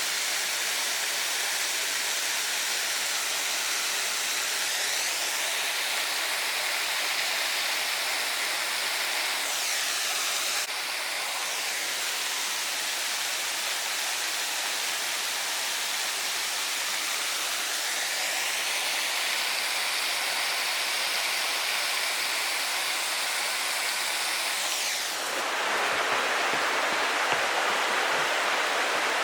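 Steady rushing of moving water. Near the end it changes abruptly to a louder, fuller rush, as if switching to another stretch of water.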